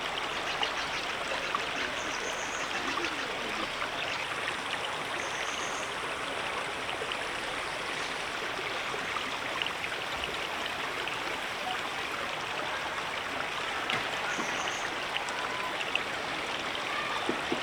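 A river running steadily, an even rush of flowing water.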